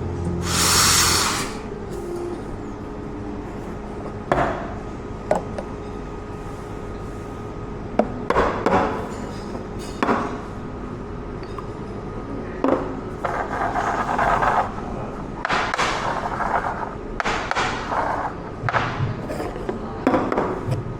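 Coffee-bar work sounds: a short, loud hiss near the start, then scattered knocks and clinks of cups and equipment and brief rushes of noise over a steady machine hum.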